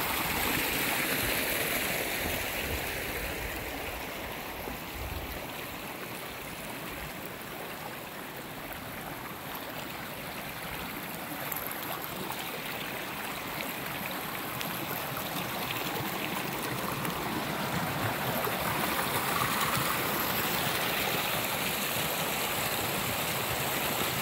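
Running water flowing steadily, a little quieter in the middle and louder again near the end.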